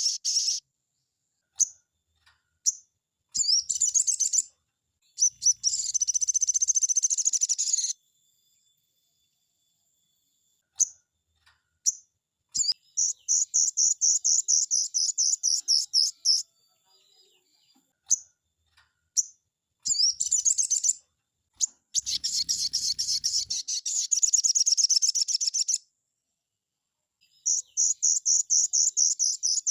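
Crimson sunbird (sogon) singing: fast, high trills of rapidly repeated notes in bursts of one to four seconds, with short gaps and single sharp chips between the bursts.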